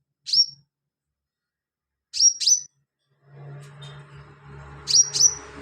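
Sunbird giving sharp, high chirps: one, then two quick pairs. From about halfway a low engine-like hum builds up underneath.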